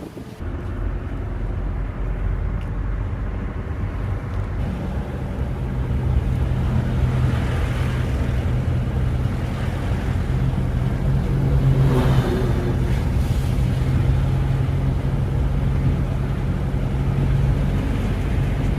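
A moving vehicle's steady low engine and road rumble, with a steady hum that comes in a few seconds in and holds.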